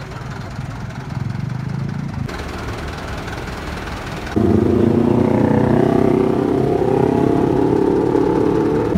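Truck engines running and revving on the road, cut together from several clips. The sound jumps abruptly louder about four seconds in, where an engine note rises and holds.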